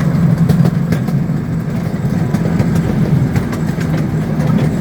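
Gas engine of a narrow-gauge riding train's scale locomotive running steadily while the train is under way, a low steady hum with scattered clicks and knocks.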